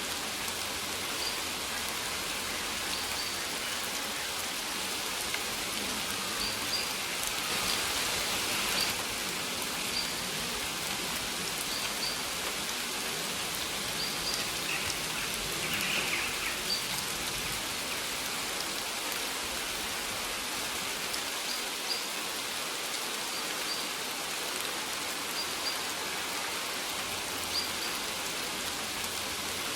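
Steady rain falling, an even hiss of drops. Brief high bird chirps recur every second or two, and the rain swells a little about eight seconds in.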